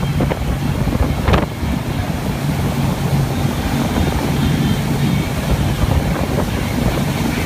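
A wakeboard boat's engine hums steadily under way, with wind buffeting the microphone and water rushing past. There is one brief sharp noise a little over a second in.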